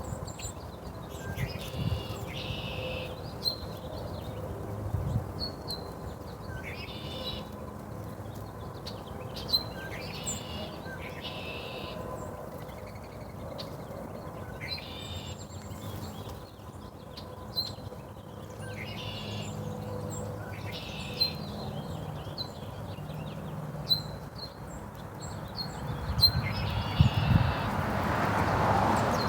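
Small birds chirping and calling in short, repeated high notes and brief trills, over a steady low hum.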